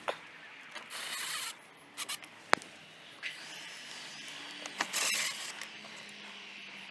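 A window sash being opened and closed on newly fitted hinges. There are two short rubbing, sliding noises, about a second in and again near five seconds in, and several sharp clicks in between.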